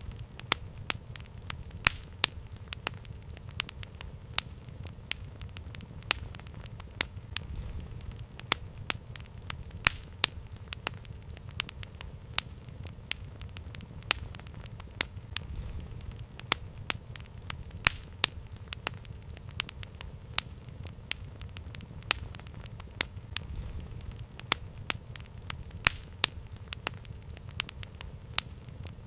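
Campfire crackling: sharp pops and snaps of the burning wood several times a second over a low, steady rumble of the fire.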